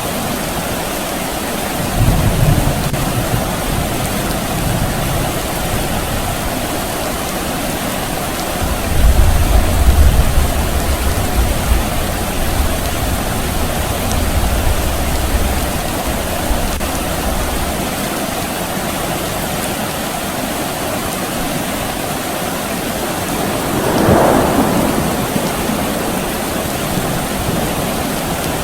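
Steady rain falling, with distant thunder rumbling low: a short roll about two seconds in and a longer, louder roll from about nine seconds that fades out over several seconds. Near the end there is a brief swelling rush over the rain.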